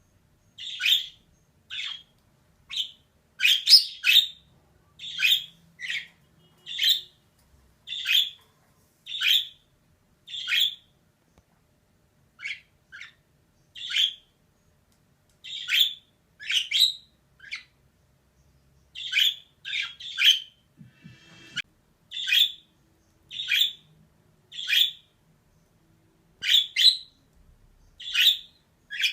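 Female budgerigar giving short, sharp chirping calls, about one a second, with a couple of brief pauses.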